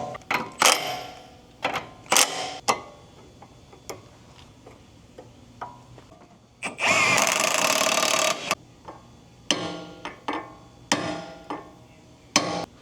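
Sharp metallic clanks and knocks of tools and parts being handled, then a cordless power tool runs in one steady burst of about a second and a half near the middle, followed by more scattered knocks.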